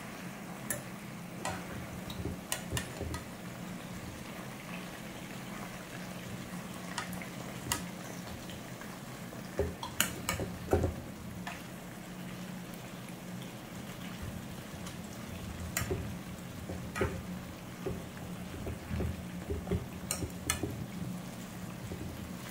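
Chicken pieces sizzling as they fry in oil in a nonstick pan, with a metal spoon clicking and scraping against the pan as the pieces are turned over, a few louder knocks about halfway through. A steady low hum runs underneath.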